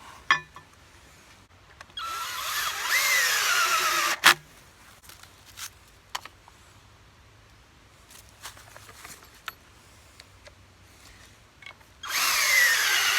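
Power drill running in two bursts, one of about two seconds and one of about a second near the end, its whine rising then sagging in pitch under load. A sharp knock follows the first burst.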